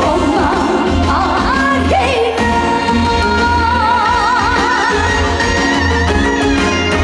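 Live trot song: a woman singing over a band backing track with a steady bass beat, holding a long note with wide vibrato about halfway through.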